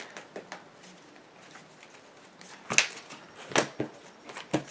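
Trading cards being handled and set down on the table: a few faint taps, then four sharper card slaps and clicks in the second half.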